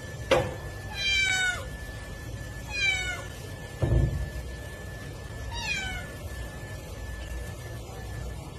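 A cat meowing three times, each meow falling in pitch, with a thump about four seconds in.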